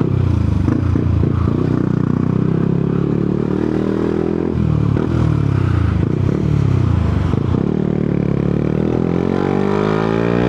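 Yamaha MT-125's single-cylinder four-stroke engine under way, its note rising and falling with the throttle and dipping about halfway through, then climbing steadily near the end as the bike accelerates.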